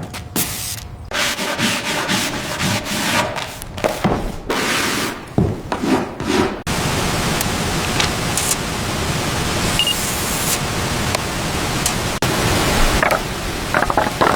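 Irregular rubbing or scraping strokes for about the first half, then a steady, even rushing noise takes over for the rest.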